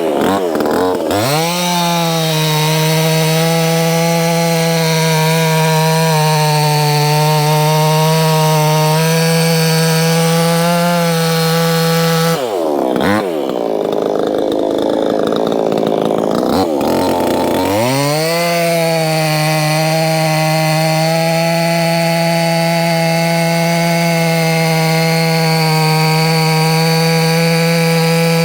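Proyama 68cc two-stroke chainsaw running at full throttle while cutting wood, its pitch high and steady. About twelve seconds in the engine speed drops and wavers for a few seconds, then it revs back up and holds steady again.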